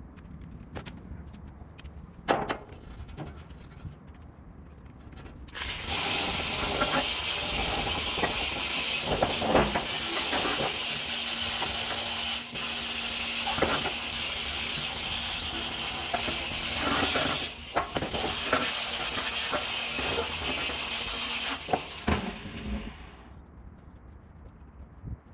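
A long, loud hiss of spraying air starts about five seconds in and stops a couple of seconds before the end, breaking off briefly once partway. Scattered clicks and knocks sound around it.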